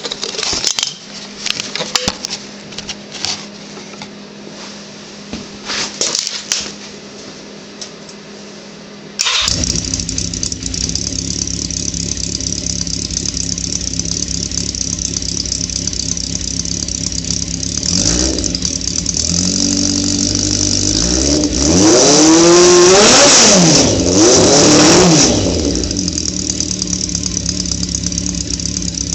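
A 1982 Yamaha XJ750's air-cooled inline four starts and runs through a custom 4-into-1 header and a glasspack muffler cut in half. After several seconds of scattered clicks, the engine fires about nine seconds in and idles, is blipped once, then revved up and down twice before dropping back to idle. By the owner's account it runs rough, badly in need of tuning.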